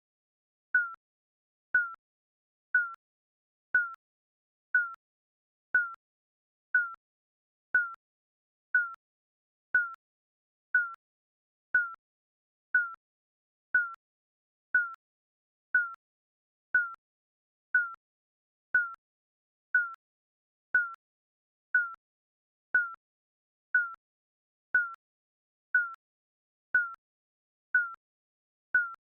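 Digital countdown timer beeping: a short, high electronic pip once a second, each dipping slightly in pitch.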